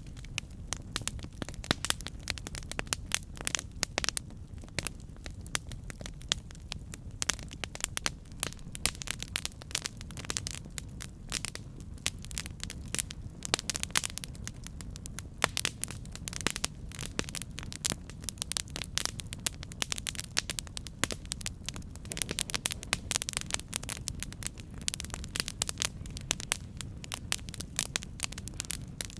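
Campfire burning, with many irregular sharp crackles and pops over a steady low rush of flame.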